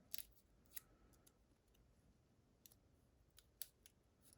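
Near silence with a handful of faint, sharp metal clicks: small parts of a Medeco lock cylinder being handled while the lock is shimmed open.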